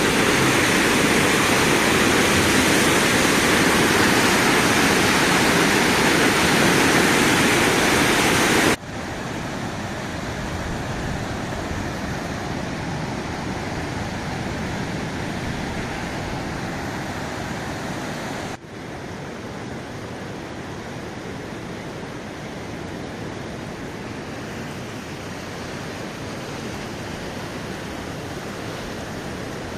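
Steady rushing noise of heavy rain and running water. It drops abruptly to a quieter level about nine seconds in and again a little after eighteen seconds.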